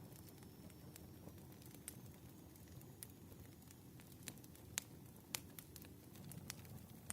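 Faint wood fire crackling: a low steady rumble of burning logs with scattered sharp pops, the loudest a little before and after the five-second mark.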